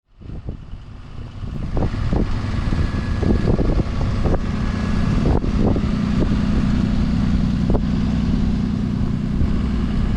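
Road vehicles, city buses among them, running in stalled traffic: a steady low engine rumble that fades in over the first two seconds, with several short knocks in the first half.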